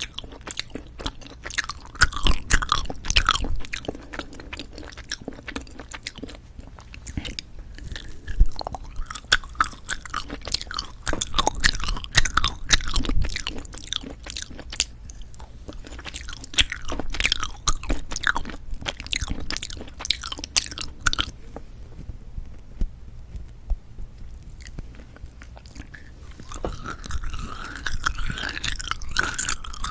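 Close-miked chewing and biting of novelty jelly candy: a dense run of mouth clicks and bites that eases off for a few seconds and picks up again near the end.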